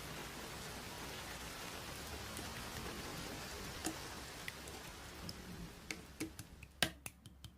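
Steady hiss with scattered light clicks; the hiss fades over the last couple of seconds while the clicks come more often.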